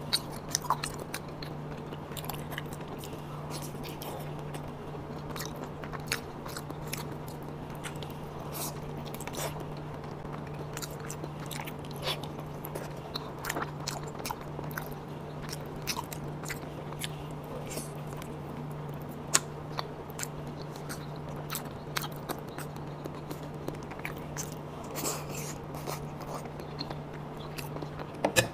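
Close-miked chewing and biting of a person eating raw salmon slices dipped in sauce: many short, soft wet mouth clicks and smacks scattered throughout, over a steady low hum.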